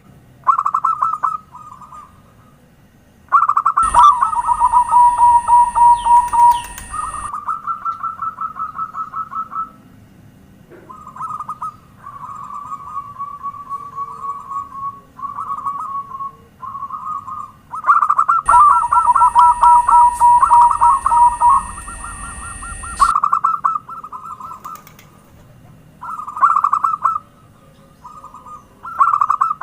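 Zebra doves (perkutut) singing: repeated phrases of rapid, rattling coos, with two birds overlapping at times. A steady high tone comes in twice for a few seconds.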